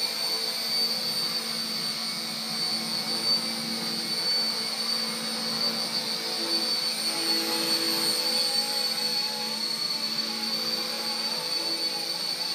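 RC Era C032 UH-1 Huey RC helicopter in flight: electric motor whine and rotor buzz, a steady high whine over a lower hum. The hum shifts slightly in pitch about six to eight seconds in.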